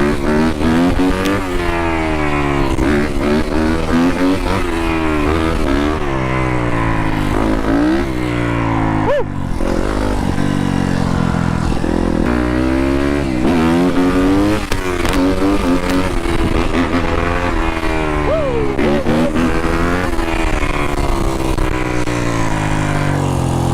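Dirt bike engine revving up and dropping back again and again as the rider accelerates and shifts through the gears.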